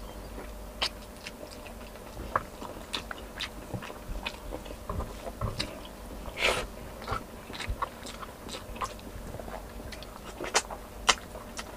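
Close-miked chewing and biting as a mouthful of chicken and rice is eaten by hand, with irregular wet mouth clicks and smacks.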